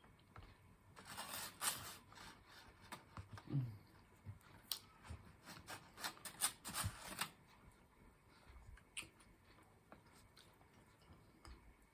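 Faint eating and food-handling sounds at a table: two stretches of scratchy rustling and scraping with scattered small clicks, and a brief low hum about three and a half seconds in.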